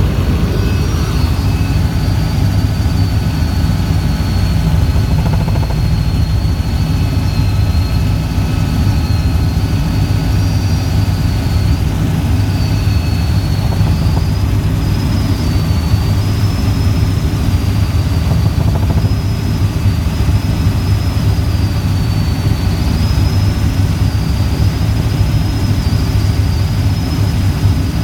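Helicopter in flight: a steady, loud low drone with a thin high whine above it that wavers slightly in pitch.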